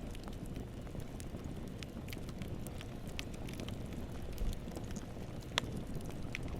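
Wood campfire burning: a steady low rumble with scattered small crackles and pops, and one sharper pop a little before the end.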